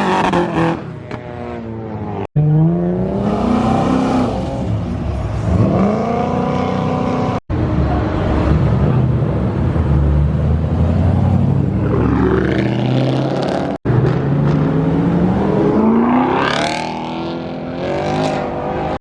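Cars accelerating hard away one after another, engine and exhaust note climbing in pitch and dropping back between shifts. The sound breaks off suddenly three times where one car's run cuts to the next.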